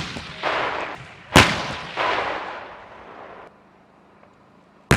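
Heavy gun blasts from M1A2 Abrams tanks' 120 mm main guns firing. There is a sharp report about a second and a half in, followed by a long rolling echo and fainter reports, and another sharp blast right at the end.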